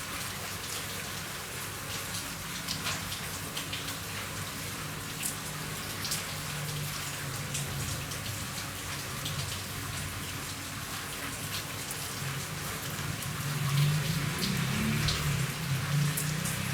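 Steady rain falling on a roof, a dense patter with individual drops ticking sharply. A low rumble builds and grows louder in the last few seconds.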